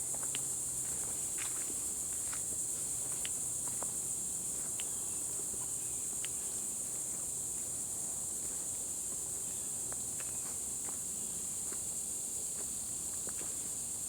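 A steady high-pitched insect chorus, with scattered light footsteps and small ticks and snaps from someone walking a woodland trail.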